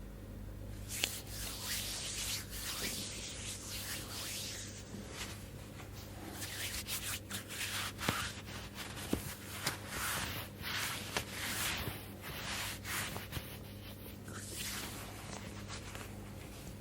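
Close-miked hands rubbing in a slow massage: a series of soft, irregular swishing strokes with a few small clicks, over a low steady hum.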